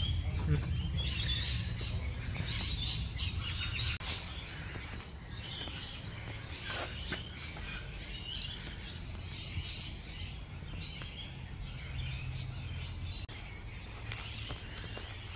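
Several birds chirping and calling, over a steady low rumble that is strongest in the first few seconds.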